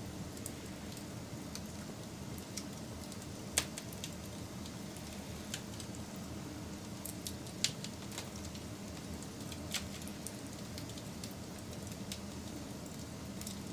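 Wood fire burning with a steady low rush of flames and irregular sharp crackles and pops from the burning wood, two louder pops about three and a half and seven and a half seconds in.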